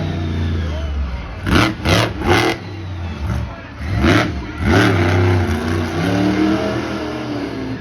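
Monster truck engine running and revving, its pitch rising and falling. It breaks into sharp, loud bursts: three in quick succession about a second and a half in, then two more around four and five seconds.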